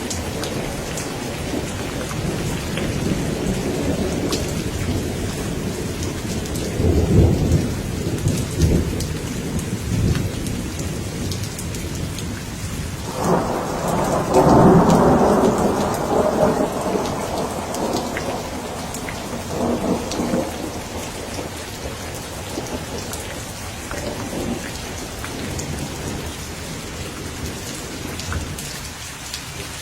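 Steady rain falling, with thunder rumbling through it: a low roll about seven seconds in, a louder peal breaking suddenly about halfway through and fading over several seconds, then fainter rumbles.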